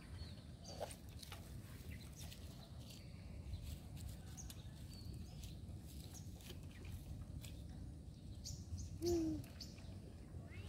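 Small birds chirping now and then in short high calls over a steady low outdoor rumble. About nine seconds in comes a single short, louder falling squeak.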